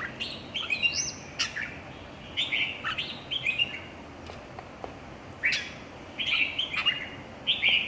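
Red-whiskered bulbul singing: short, sharp warbled phrases in bouts separated by brief pauses.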